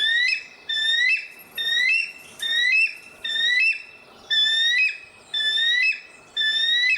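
Eagle calling: a series of high, whistled calls, each rising with a step up in pitch, repeated about once a second.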